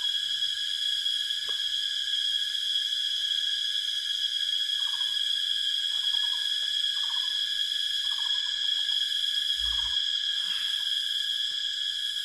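Steady chorus of forest insects: a continuous high drone holding several unchanging pitches. A few short chirping calls come in the middle, and a single low thump falls late on.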